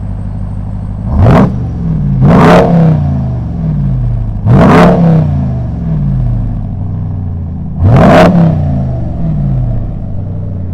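Car engine revving hard four times over a steady low rumble, each rev sweeping sharply up in pitch and then dropping back down.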